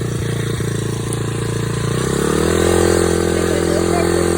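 Dirt bike engine running steadily, then revving up a little about two seconds in and holding at the higher engine speed.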